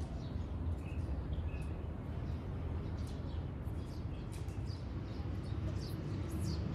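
Small birds chirping in short, quick notes, many overlapping through the garden, over a steady low rumble.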